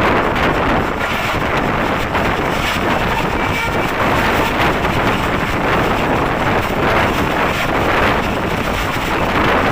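Passenger express train's coaches passing through a station at speed: a loud, steady rushing rumble of wheels on rail, with wind buffeting the microphone.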